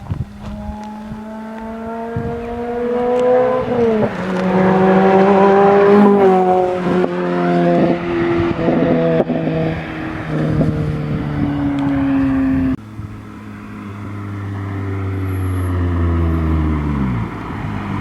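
Lotus Exige S2's four-cylinder engine through a Janspeed Stage 2 exhaust, running under load with its note rising and dropping as the revs change. About thirteen seconds in the note changes abruptly to a lower pitch, which then falls away near the end.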